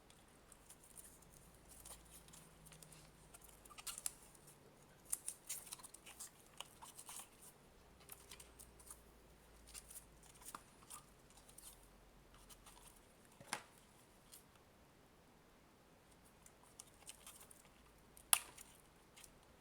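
Faint scratching and rustling of electrical insulation tape being unrolled and wrapped around a plastic charger case, with a few sharper clicks in the second half.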